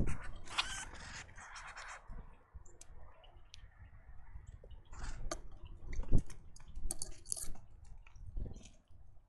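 Irregular knocks, scrapes and light clicks close to the microphone, typical of birds landing, hopping and pecking on a bird feeder, with a sharp thump at the start and another about six seconds in.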